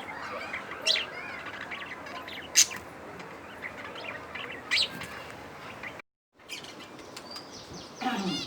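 Budgies chirping and chattering, with three sharp, louder calls spread through the first five seconds and a falling call near the end. The sound drops out completely for a moment about six seconds in.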